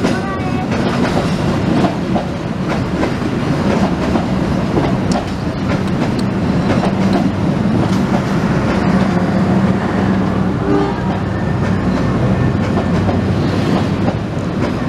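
Passenger train coaches rolling past, their wheels clattering steadily over the rail joints.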